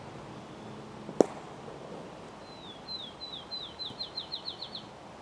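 One sharp crack about a second in, then a bird singing a series of short downslurred whistles that speed up toward the end.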